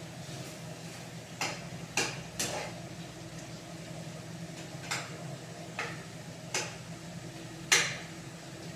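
Cooking utensil knocking and clinking against a pot or pan, about seven sharp irregular strikes, the loudest near the end, over a steady low hum.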